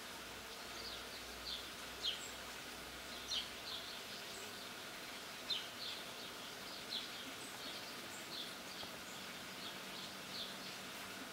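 Small birds chirping in the background: short high chirps, scattered one or two a second, over a steady outdoor hiss.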